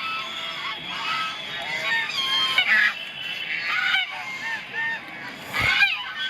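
A flock of geese honking, many short calls overlapping one another, with a short noisy burst near the end.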